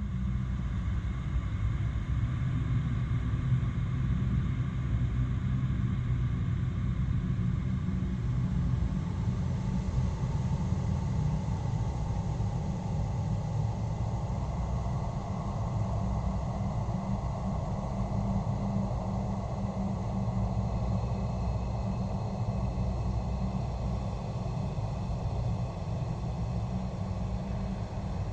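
Horror basement ambience: a steady, deep rumbling drone with faint thin tones held above it. A grainy hiss in the middle range swells from about ten seconds in.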